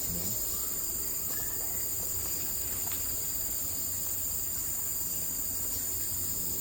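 Steady high-pitched insect chorus of crickets or similar insects, sounding in several even bands without a break, over a low background rumble.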